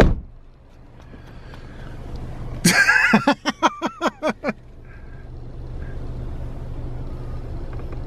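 A car door thuds shut, then a seagull gives a loud call: a screech followed by a run of about eight short falling notes. A car engine hums steadily underneath, growing a little louder toward the end.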